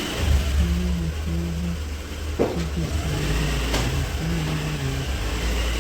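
A small vehicle engine running steadily with a low rumble, with two sharp clicks about two and a half and four seconds in.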